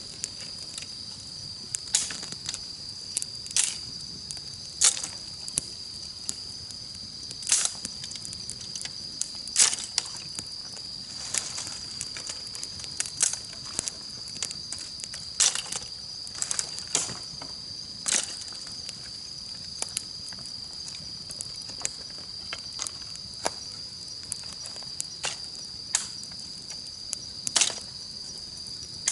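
Campfire crackling, with sharp pops at irregular intervals, over a steady high-pitched trill of insects.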